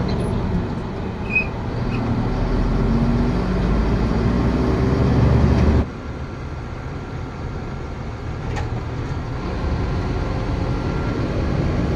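BharatBenz 3123 diesel truck running, heard from inside the cab as a steady low rumble. The noise drops suddenly just under halfway through and carries on quieter.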